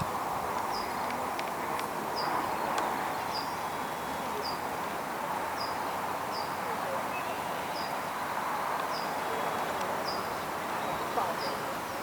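Outdoor ambience: a steady rushing hiss, with a short, high, falling chirp from a bird or insect repeating about once a second.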